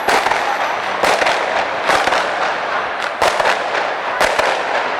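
Firecrackers going off in a continuous crackling volley, with louder bangs about once a second, set off for a Chinese celebration.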